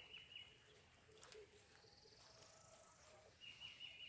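Near silence with faint bird calls: a high, quickly repeated chirping at the start and again near the end.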